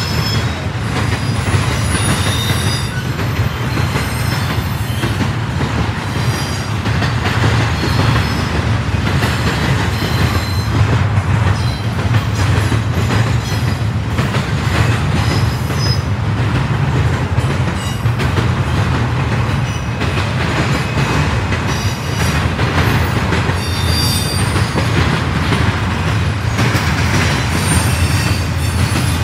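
Double-stack intermodal freight train's well cars rolling past in a loud, steady rumble, with short high-pitched wheel squeals again and again.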